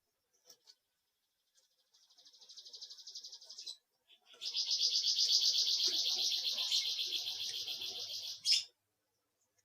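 A bird trilling: two rapid, high trills, the second longer and louder than the first, ending with a sharp chirp.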